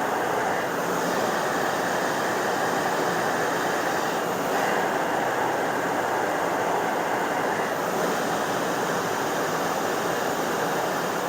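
Industrial explosion-proof vacuum cleaner running steadily with a constant airy rush, kept on while its HEPA filters are cleaned.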